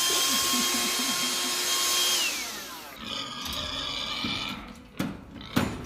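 A small electric motor whines up to speed, runs steadily for about two seconds, then winds down with a falling pitch. A quieter, different sound follows, with a couple of sharp clicks near the end.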